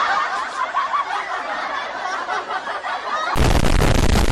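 Many people laughing together, like a laugh track. About three seconds in it cuts abruptly to a loud burst of noise, heavy in the bass, lasting about a second.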